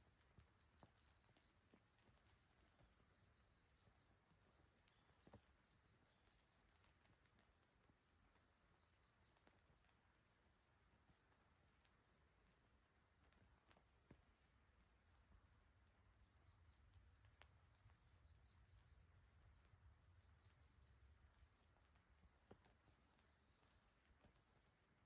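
Faint insects chirping steadily in a high continuous trill with rapid pulsing phrases, with a few soft isolated clicks.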